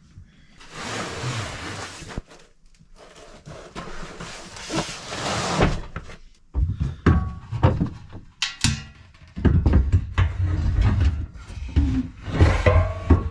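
Two stretches of hissing noise, then clattering knocks and thumps from about halfway on, as parts are handled and fitted in a small enclosed space.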